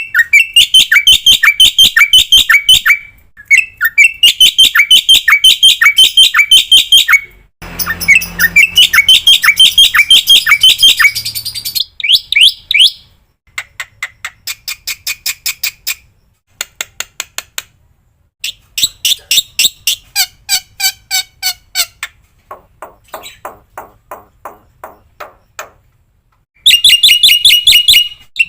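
Black-winged starling (jalak putih) song: loud, harsh notes repeated in quick series of about four or five a second, in phrases a few seconds long with short pauses between. Near the middle the phrases turn into faster, quieter ticking runs, and a loud phrase returns near the end.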